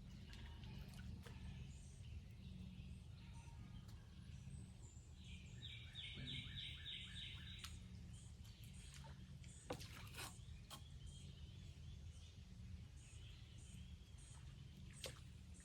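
Faint outdoor background with a steady low hum. About five seconds in, a songbird gives a rapid trill of repeated high notes lasting about two seconds, and there are scattered faint clicks.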